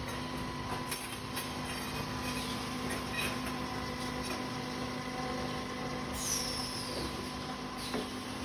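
Automatic copper tube end forming and flattening machine running: a steady hum with scattered clicks and knocks, and a falling hiss about six seconds in.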